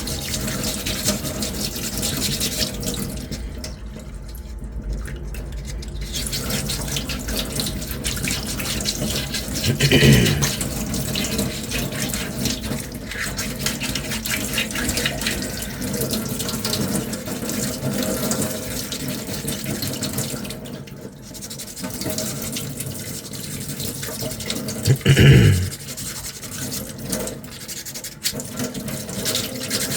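Sandpaper rubbed by hand over a putty-primed armour piece: a continuous scratchy rasp made of quick, repeated strokes. Two short pitched sounds stand out, one about ten seconds in and another some fifteen seconds later.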